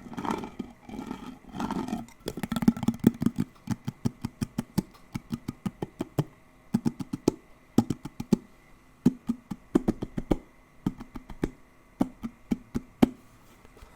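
ASMR tapping on a hard object: many sharp, quick taps in irregular clusters, some in fast runs, starting about two seconds in.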